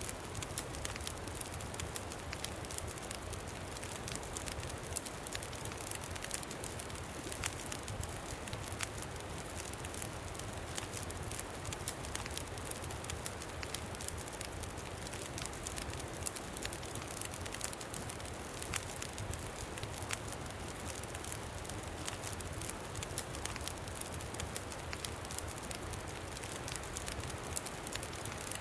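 Campfire crackling with frequent small sharp pops over a steady rush of wind.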